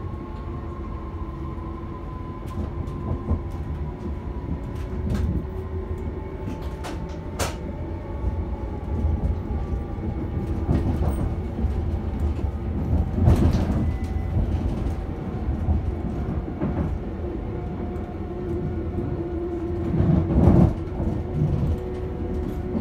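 Passenger train heard from inside the carriage as it runs away from the station: steady rumble of wheels on rails with a faint hum whose pitch shifts slowly. Several sharp clacks as the wheels pass over rail joints and points, the loudest about 13 and 20 seconds in.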